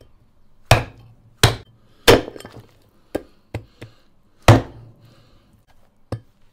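Heavy meat cleaver chopping through bone-in donkey meat: three hard strokes in quick succession, a few lighter knocks, then another hard chop about four and a half seconds in.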